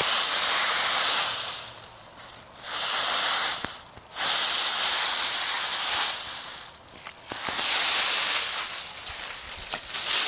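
Repeated bursts of hissing, about five, each a second or two long with short pauses between them.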